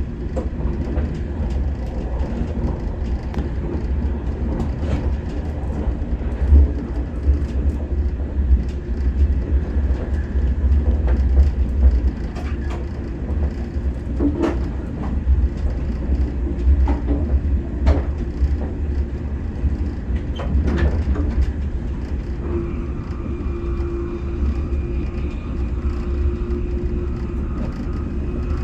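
Inside an SR 120000-series SRT high-speed electric train running at speed: a steady low rumble with a few sharp knocks, and a faint steady whine that comes in about three-quarters of the way through.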